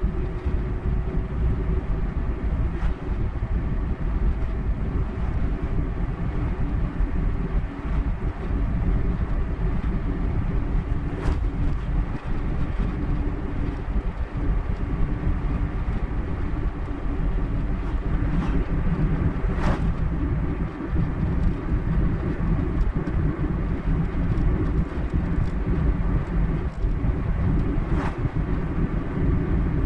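Car driving at road speed: a steady low rumble of tyres and engine, with a few brief clicks.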